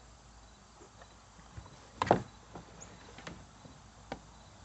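Handling noise from parts being picked up and set down on the kayak: a few light clicks and knocks, with one louder knock about two seconds in.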